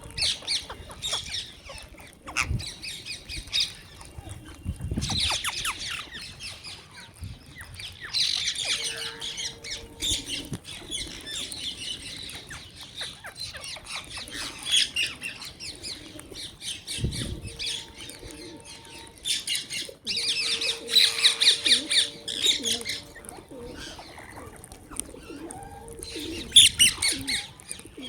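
A flock of birds chirping and squawking busily, in loud bursts of a few seconds each with quieter gaps between, and a few low thumps among them.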